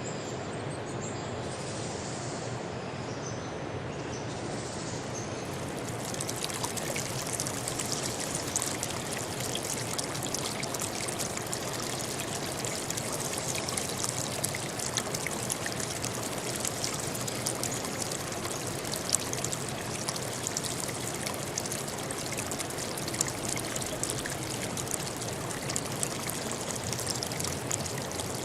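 Flowing water running steadily, like a stream trickling and splashing, with a fine crackle on top. About six seconds in it becomes brighter and fuller.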